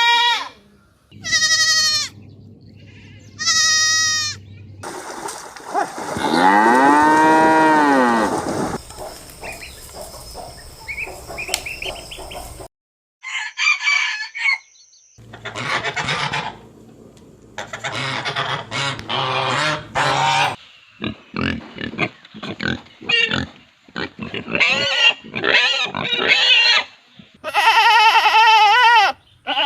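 A run of separate animal calls in quick succession, cut together. About five seconds in comes a long cow moo that rises and then falls in pitch.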